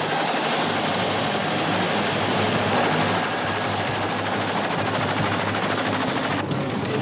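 Helicopter running: a steady engine and rotor drone with a fast, even rotor flutter.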